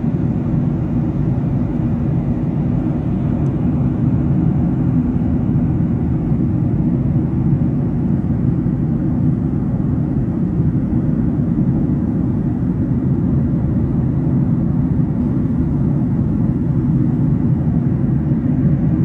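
Steady cabin noise of a jet airliner in flight: an even, low hum of engines and rushing air that does not change.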